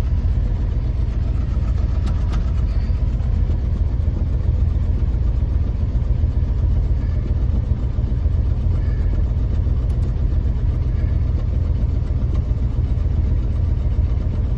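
1966 Ford Thunderbird's Q-code 428 cubic-inch V8 idling steadily.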